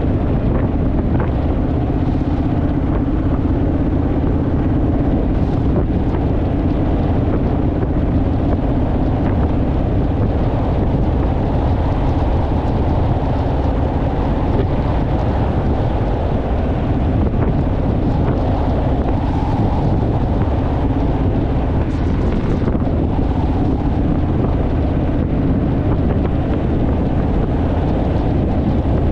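Honda Rebel motorcycle's parallel-twin engine running at a steady cruise, its even hum under heavy wind rush on the microphone.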